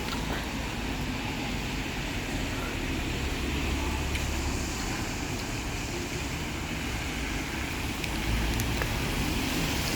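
Steady road-traffic noise with the low rumble of a bus running close by, swelling a few times.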